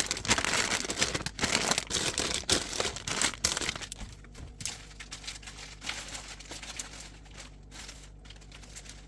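Plastic food packaging crinkling and rustling as packs of meat and cheese are handled, busy for the first four seconds, then fainter, scattered crinkles.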